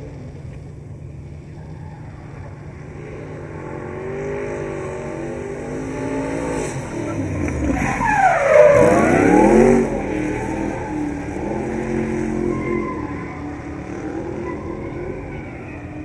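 Drift car engine revving hard on the limiter-and-lift rhythm of a drift, growing louder as the car comes close and loudest between about eight and ten seconds in, where the pitch sweeps down and climbs back up before the sound drops off suddenly and carries on farther away.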